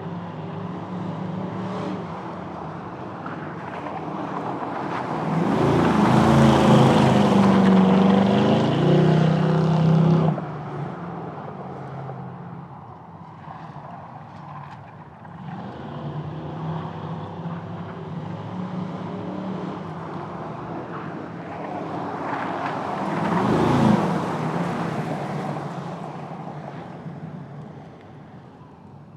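Car engines accelerating hard past on drag runs. One loud pass starts a few seconds in and cuts off suddenly; a second swells to a peak about two-thirds of the way through and then fades.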